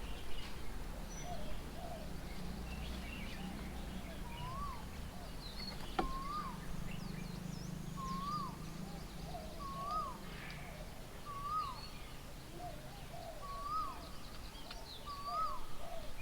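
Birds calling: one bird repeats a short call that rises and falls, every second or two, while others give fainter, higher chirps. There is a low background hum and one sharp click about six seconds in.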